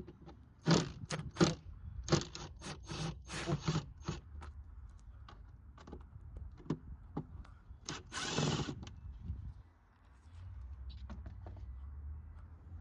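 Screws being taken out of the plastic engine air filter housing: a quick run of sharp clicks and knocks in the first few seconds, sparser ticks, then a longer scraping burst a little past eight seconds in. A low steady hum comes in near the end.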